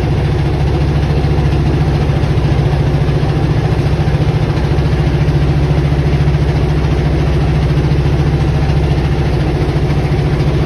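An engine running steadily at an even, idling-like speed, with a low drone.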